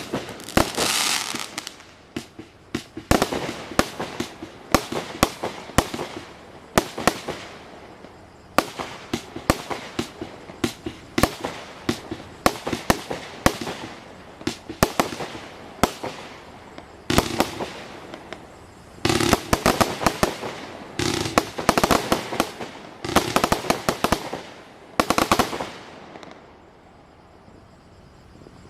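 Black Cat Excelsior firework going off: a long run of sharp bangs at an uneven pace, with thicker crackling volleys in the last part. It stops about 26 seconds in.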